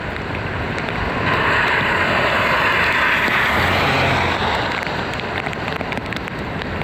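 Heavy rain falling, with a car driving through deep standing water: the hiss of tyre spray swells about a second in and fades after about four seconds.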